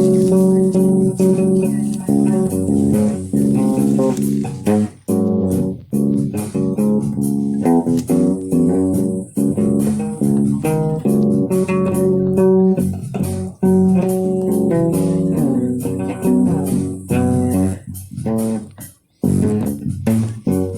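Guitar music: plucked notes over a low bass line, playing in short phrases with brief breaks.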